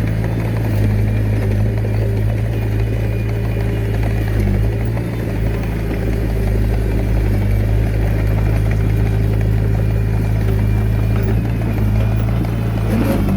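Diesel engine of a Komatsu D21A mini bulldozer running steadily under work.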